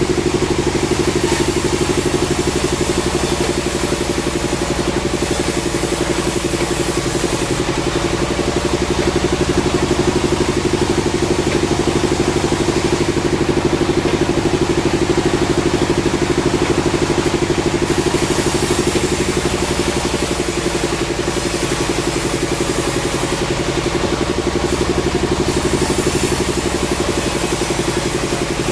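Sawmill machinery running steadily, an engine-like drone with rapid even pulsing and a hiss in the highest range that rises and falls.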